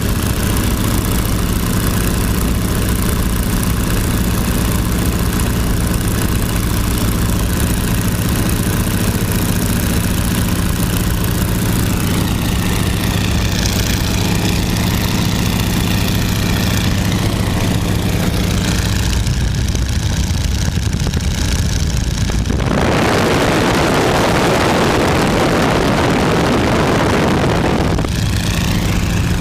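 Boeing-Stearman PT-17 biplane's radial engine running steadily. About two-thirds of the way through, a loud, even rushing noise takes over for several seconds, then the engine's tone returns.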